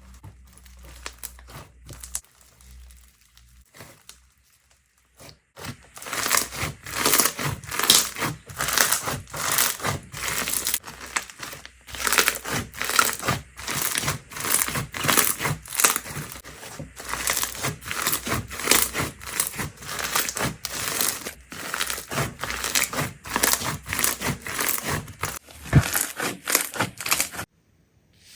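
Slime being squeezed and worked by hand, giving a dense, irregular run of crackling, crinkly pops. The crackling starts about five seconds in and cuts off suddenly near the end.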